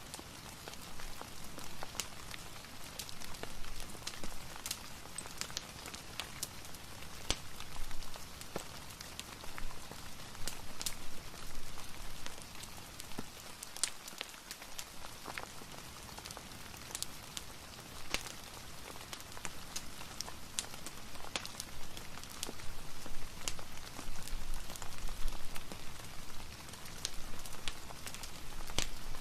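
Steady rain hiss mixed with a wood fire crackling, with sharp pops scattered irregularly throughout.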